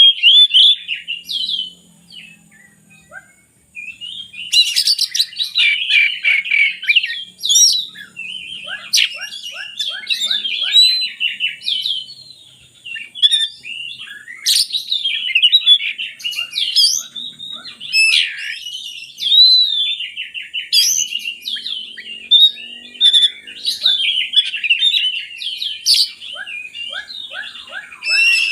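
Oriental magpie-robin (kacer) singing a long, varied song of rapid trills, chatters and whistled notes. The song breaks off for about two seconds a couple of seconds in, then runs on without a gap.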